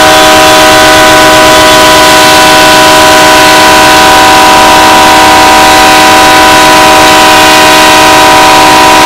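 BNSF locomotive air horn blowing continuously on one steady chord, very loud, left sounding on a stopped train with no engineer aboard.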